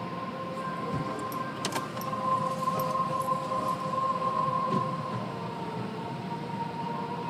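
Car wash machinery running with a steady whine over a rumbling hiss, a few sharp clicks about a couple of seconds in, and the sound swelling for a few seconds in the middle.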